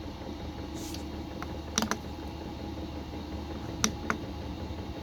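Clicks of the buttons on a Chinese diesel heater's LCD controller being pressed to enter a menu code: a quick pair about two seconds in, then two more near the end. A steady low hum runs under them.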